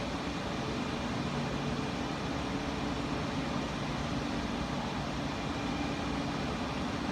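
Steady hum and rushing noise of an E4 series MAX shinkansen train, with a low drone that holds even and unchanging.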